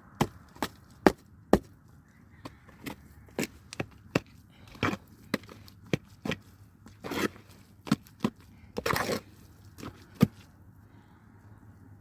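A series of irregular sharp knocks and thuds, the loudest in the first second and a half, with a few short scraping or rustling sounds later on.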